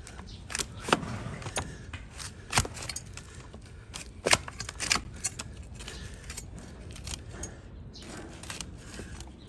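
Donkey hoof horn being cut and scraped with a hoof-trimming blade: irregular sharp cutting strokes, the loudest about a second in and again around two and a half and four and a half seconds in.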